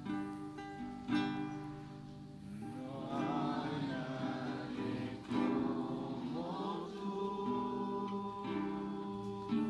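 Acoustic guitar playing while voices sing a slow worship song.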